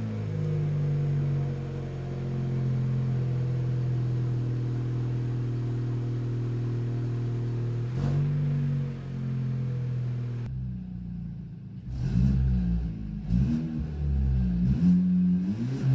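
Opel Astra K 1.4 turbo petrol engine running steadily, then revved in several short blips from about ten seconds in. It is heard through a rusted-out exhaust that makes the car sound like a race car.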